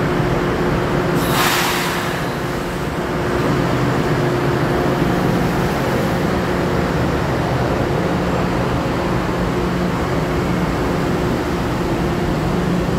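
LIRR M3 electric multiple-unit train standing at the platform, its electrical equipment giving a steady hum, with a short hiss of air about a second in. Near the end it begins to pull away.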